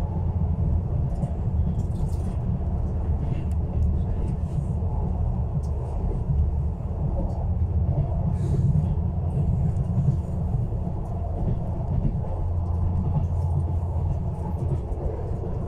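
Interior running noise of an ESh1 electric train travelling at speed: a steady low rumble of wheels on the track and the car body, with a few faint clicks.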